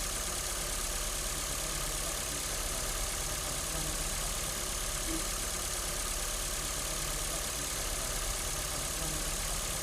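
Ford Fiesta engine idling steadily.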